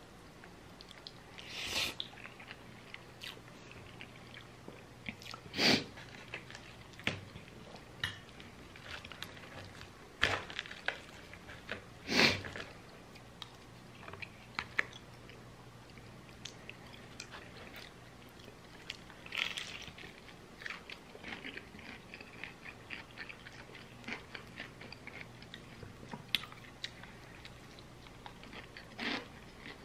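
A person eating close to the microphone: chewing and biting, with scattered sharp crunches and mouth clicks from crispy fried chicken and soft palabok noodles. The louder crunches come irregularly, a few seconds apart.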